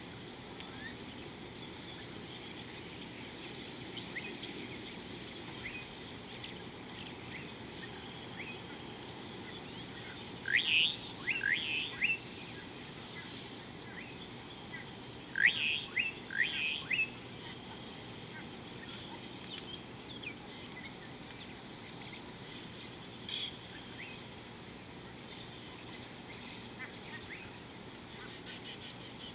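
Wild birds calling: scattered faint chirps, with two loud bursts of three or four quick, sharp sweeping calls about ten and fifteen seconds in, over steady low outdoor background noise.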